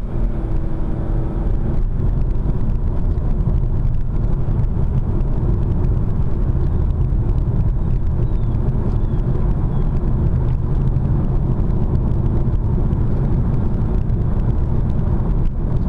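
Steady low rumble of a car driving along, heard from inside its cabin: tyre and engine noise.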